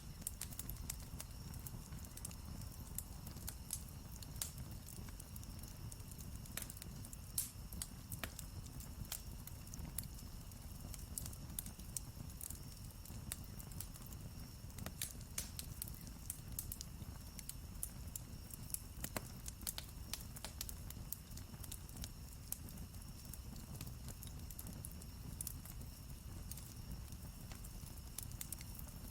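Wood campfire crackling: irregular sharp pops and snaps, a few louder than the rest, over a low steady rumble.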